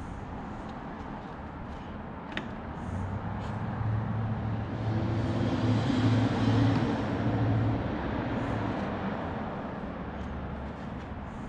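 A motor vehicle driving past: a low engine hum that grows louder over a few seconds and then fades away.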